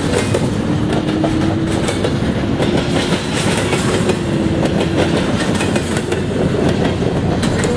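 Double-stack intermodal well cars rolling past at close range: a steady, loud rumble of steel wheels on rail, with a clickety-clack of wheels crossing rail joints. A faint steady hum runs through the first five seconds or so.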